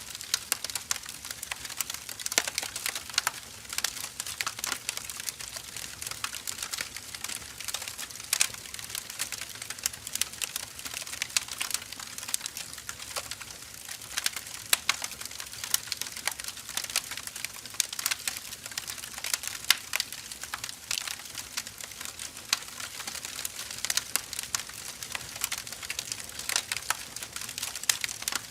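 Firewood burning, with irregular sharp crackles and pops, several a second, over a faint hiss.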